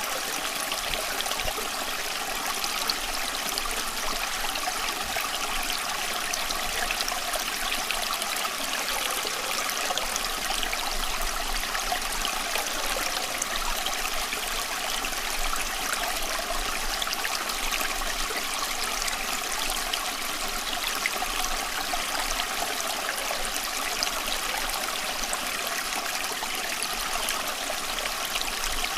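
Running water flowing steadily, an even rushing sound with little deep rumble.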